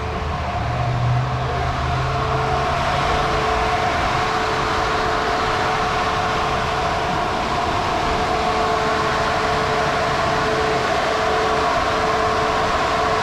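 Steady mechanical whirring hum from the parked car, with a low hum that fades out after the first few seconds.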